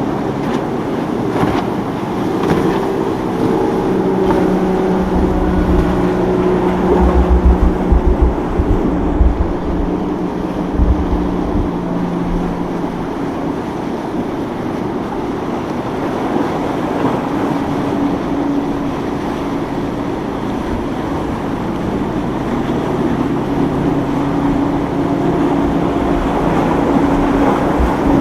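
Motorboat engines running as boats pass through an inlet, one steady engine note in the first half giving way to another in the second half, over a constant rush of wind and water.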